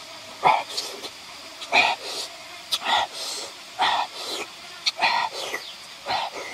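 Open-mouthed chewing and lip smacking with crisp crunches of fresh lettuce, in short bursts about once a second.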